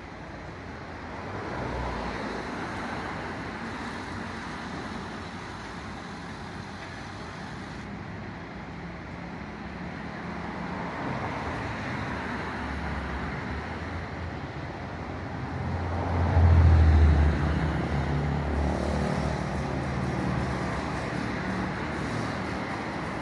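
Street traffic noise, with a large vehicle's engine growing loud and low about sixteen seconds in as it passes, then fading back into the traffic.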